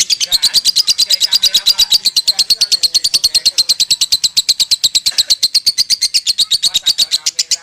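Lovebird singing a long unbroken trill of rapid high chirps, about a dozen a second. This is the long 'ngekek' song of a 'konslet' lovebird, one that keeps the trill going without a pause.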